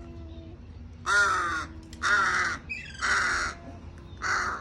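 Crow cawing four times: harsh calls of about half a second each, spaced roughly a second apart.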